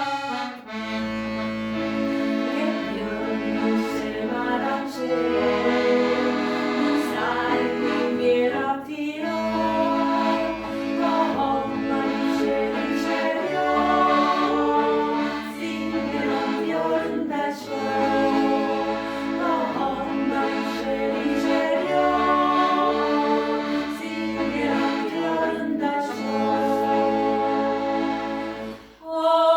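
Accordion music with a sung melody, the bass notes changing in steady blocks beneath sustained chords.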